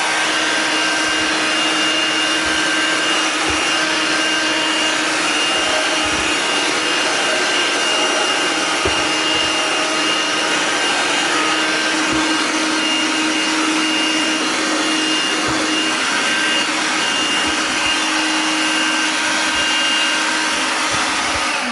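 VAX Gator 10.8 V cordless handheld vacuum cleaner running steadily with a loud whine and airflow rush, with scattered faint knocks. Near the end it is switched off and the motor's pitch falls away as it winds down.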